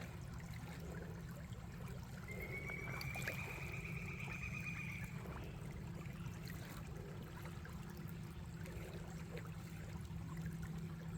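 Creek water trickling and running steadily. About two seconds in, a faint high whistle-like tone is held for about three seconds.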